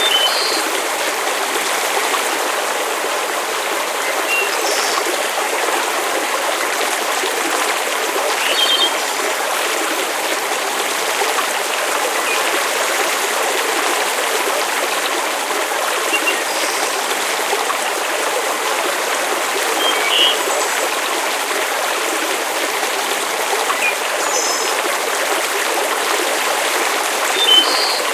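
Steady rushing of water with scattered short, high pops and ticks.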